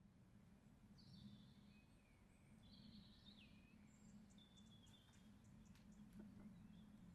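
Faint birdsong, several short chirps and warbling phrases, over a steady low hum of background noise.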